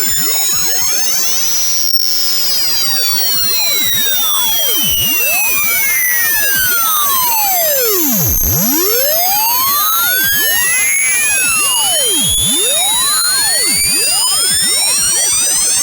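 Loud, high-pitched electronic synthesized tone. Many pitches glide up and down at once, crossing and mirroring each other, in a continuous shrill sweep.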